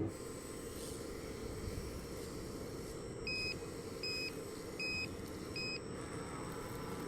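Reversing warning beeper of an RC model truck or machine: four short electronic beeps about three-quarters of a second apart, over a steady low rumble.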